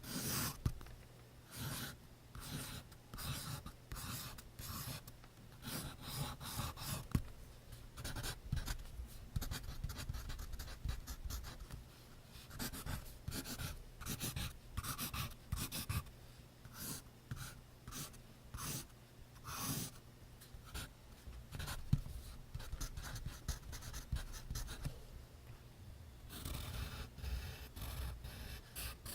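Pencil writing on notebook paper: quick, scratchy strokes in irregular runs, turning into a denser, more continuous scratching about three seconds before the end.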